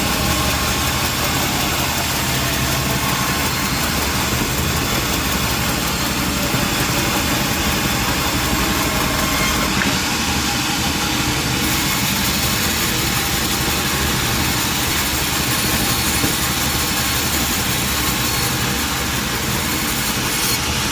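Sawmill machinery running steadily: a constant engine-like drone with a continuous hiss over it, no breaks or changes in pitch.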